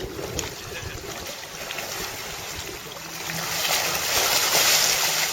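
A boat moving through water: rushing water and wind on the microphone. The rush swells louder in the second half, with a faint low engine hum under it.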